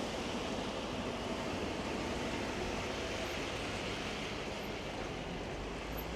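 Steady hiss and rumble of passing city traffic, tyres running on wet, slushy pavement.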